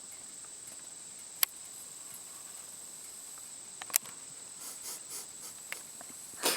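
An insect, cricket-like, keeps up one steady high-pitched trill over quiet outdoor background, with two sharp clicks about a second and a half and four seconds in.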